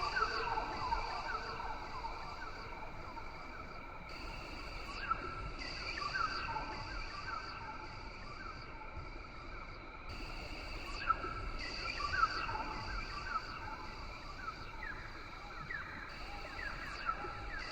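Rain forest ambience: a steady high insect drone with many short, falling chirping calls repeated throughout.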